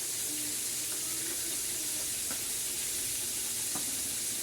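A steady high hiss, with a couple of faint clicks about two and a half seconds in and again near the end.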